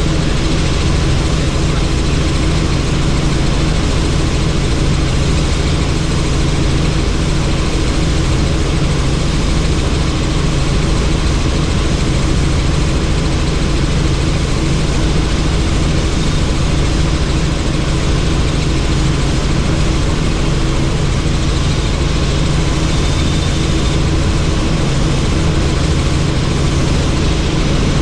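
Helicopter in flight, heard from inside the cabin with the doors off: a steady engine and rotor drone mixed with wind rush on the microphone.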